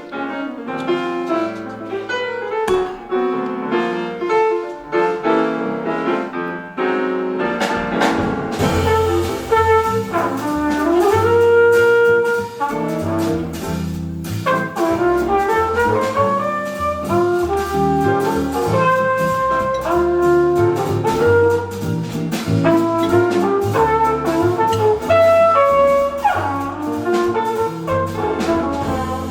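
Small jazz band playing live: piano alone for the first several seconds, then flugelhorn, double bass and drums come in together, the flugelhorn carrying a smooth melody with sliding notes over a walking bass and cymbals.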